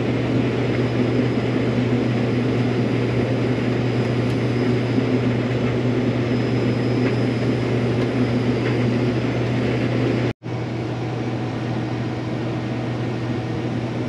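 Combine harvester running steadily while cutting wheat, a loud even drone with a low hum. The sound cuts out for an instant about ten seconds in and comes back slightly quieter.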